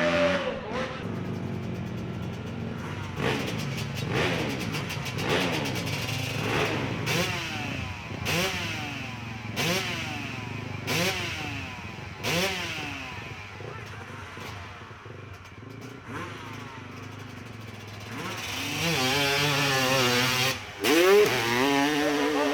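Motorcycle engine revving hard at a hill climb, its pitch rising and dropping back again and again as the throttle is worked, growing fainter midway. The engine sound swells loud again, rising in pitch, near the end.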